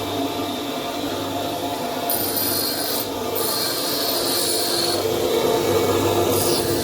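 A workshop tool rasping steadily and without a break on metal.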